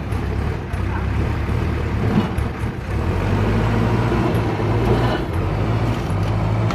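Diesel engine of an ACE backhoe loader running steadily under working load, with a low hum.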